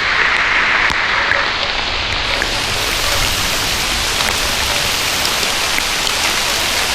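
A steady downpour of rain, with single drops heard as small, scattered ticks, the dripping of rain onto a leaf-littered forest floor.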